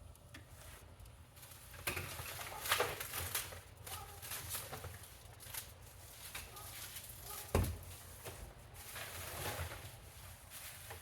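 Vacuum cleaners and their boxes being handled and shifted: irregular rustles and knocks, with a heavier thump about seven and a half seconds in.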